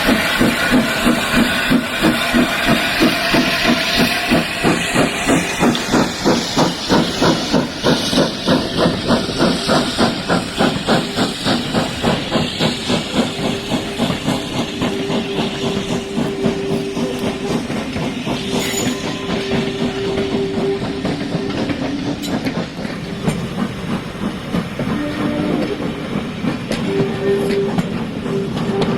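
Steam locomotive working a train, its exhaust beats chuffing in a quickening rhythm over a hiss of steam. Then the carriages roll by with rail clatter and a steady tone that comes and goes.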